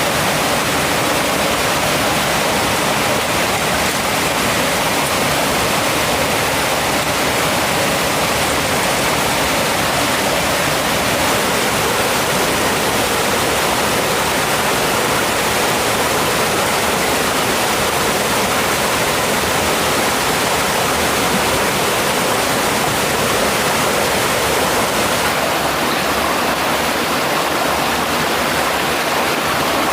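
Rushing water of a mountain stream, a loud, steady roar of flowing water.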